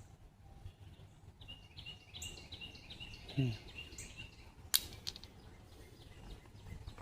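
A bird calling a quick series of about eight short, high repeated notes from about a second and a half in to about four seconds. A brief low falling sound comes in the middle of the series, and a single sharp click follows about a second later, over a low outdoor rumble.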